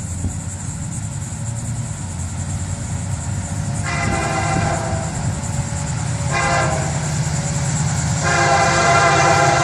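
An approaching Florida East Coast Railway freight's lead GE ES44C4 diesel locomotive sounding its multi-chime air horn: a long blast, a short one, then another long one, over the steady diesel rumble that grows louder as the train nears.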